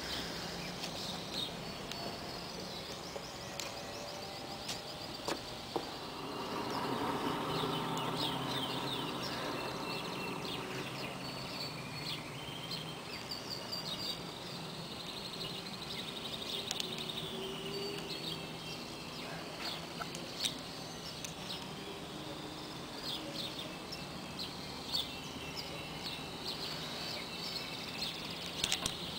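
Small birds chirping and calling on and off over a steady background hum. A lower, louder rumble swells about six seconds in and slowly fades.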